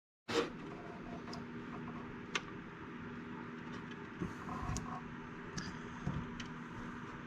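Light clicks and taps of hands working a hot glue gun and small plastic headlight parts on an RC car body, starting with one sharper click and spaced a second or so apart, over a steady low hum.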